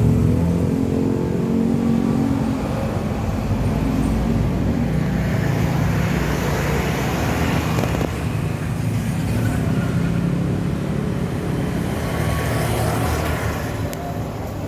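Motor vehicle engines running with steady traffic noise, swelling twice as vehicles pass.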